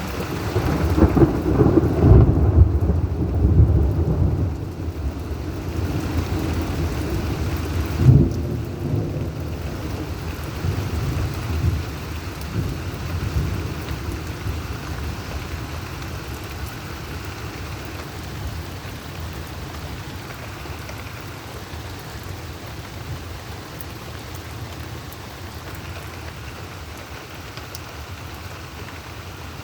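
Thunder over steady rain: a long low rumble in the first few seconds, a sharp clap about eight seconds in, then rumbles dying away until mostly the rain is left.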